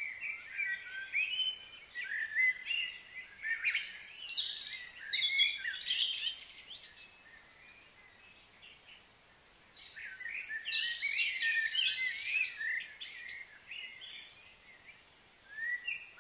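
Small birds chirping and twittering, with many short overlapping calls coming in busy bursts and a lull about seven to ten seconds in.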